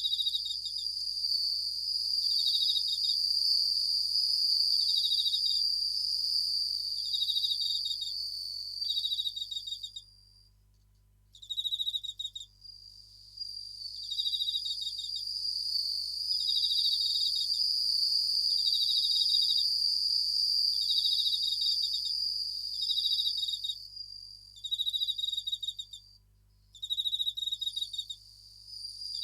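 Japanese bell crickets (suzumushi) singing: a steady high trill with groups of pulsed chirps repeating about every second and a half. The singing cuts out briefly twice.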